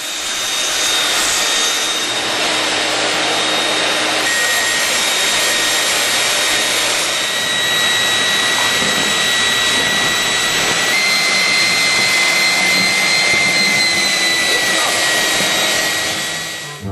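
Vacuum cleaner running steadily: a loud rush of air with a thin high motor whine over it. The whine steps up in pitch about eleven seconds in and eases back down a little a few seconds later.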